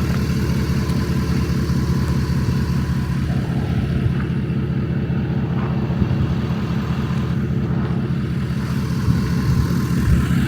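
Ford 6.7 L Power Stroke V8 diesel idling steadily through a 5-inch straight-pipe exhaust, a fast, even low pulse.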